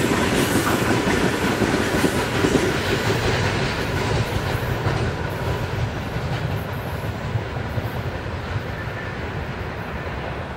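A train rolling past on the line, its wheels clattering over the rail joints, the sound slowly fading as it draws away.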